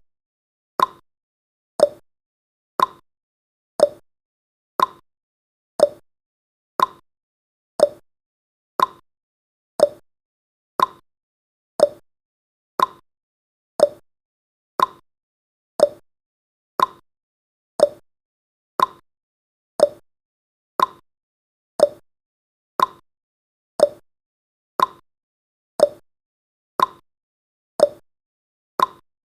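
Countdown timer's clock-tick sound effect: one sharp tick about every second, each dying away quickly, in an even unbroken rhythm.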